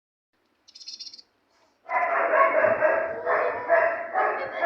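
A dog vocalising in three loud, long drawn-out calls that begin about two seconds in, with a brief high chirp shortly before them.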